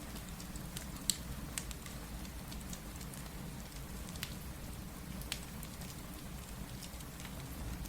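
Steady rain mixed with a crackling fireplace: a constant low rumble and hiss with scattered sharp pops and snaps, the loudest about a second in.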